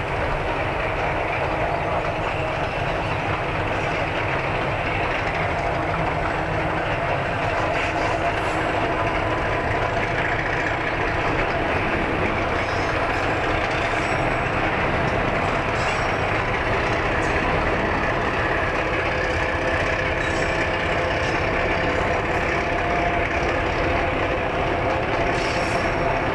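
A narrow-gauge train running: a steady, unbroken rumble of wheels on rail with a constant engine hum and faint scattered clicks.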